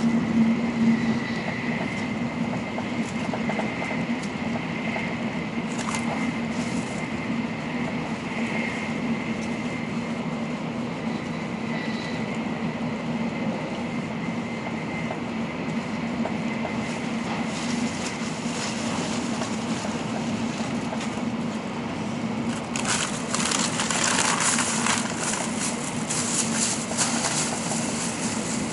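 N700-series Shinkansen heard from inside the passenger cabin while running at speed: a steady rumble and hum. Near the end a louder rushing hiss swells for about five seconds.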